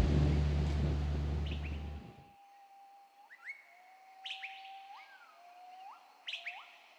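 A songbird calling: a series of five or six whistled notes spaced about a second apart, each a held note ending in a quick upward sweep. Background music fades out over the first two seconds.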